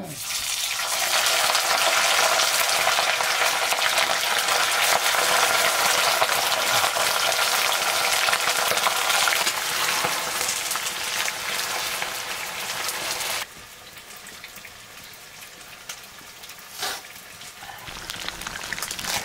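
Food frying in hot oil in a cooking pot, a loud, dense sizzle that starts abruptly and drops suddenly to a quieter sizzle about two-thirds of the way through.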